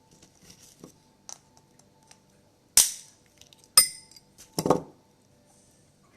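Crab shell being cracked: three sharp cracks about a second apart, the second with a brief ring and the last a longer crunch, with small clicks before them.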